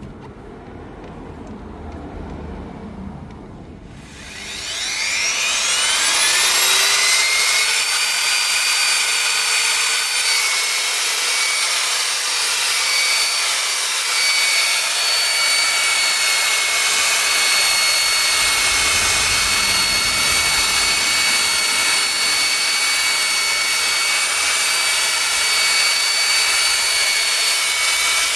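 An electric power tool's motor switches on about four seconds in, its whine rising in pitch for a few seconds as it spins up to speed, then running steadily at a high pitch.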